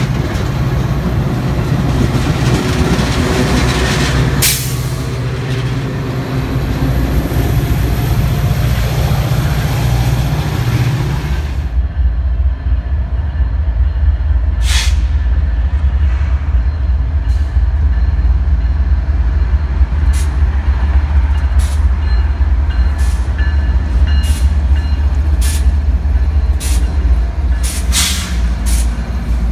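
A Metra bilevel commuter train running alongside a station platform, then after a sudden cut a BNSF intermodal freight train passing, three diesel locomotives leading, with a heavy steady low rumble and scattered sharp clicks from the wheels, more of them near the end.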